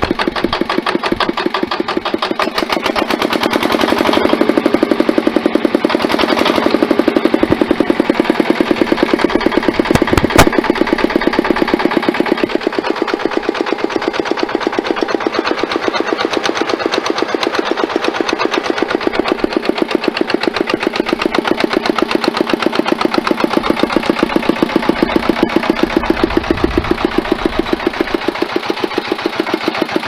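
Old Mitsubishi Katsura diesel engine of a walk-behind tiller running steadily with a fast, even beat of firing pulses, a little louder for a few seconds early on. A single sharp click sounds about ten seconds in.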